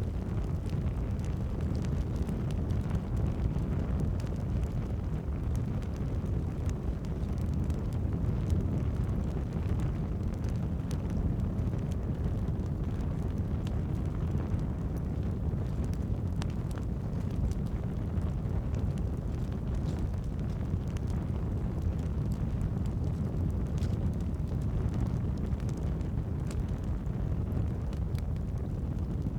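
Campfire burning: a steady low rumble of flames, with the crackle and pop of burning logs scattered throughout.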